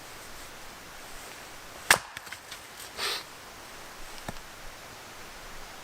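A Swedish axe strikes and splits a log once with a sharp crack about two seconds in. About a second later there is a short rustling clatter, and then a faint knock.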